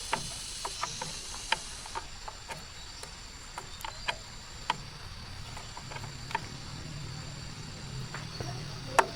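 Scattered light clicks and taps at an uneven pace, a sharper one near the end, over a faint steady insect chirr.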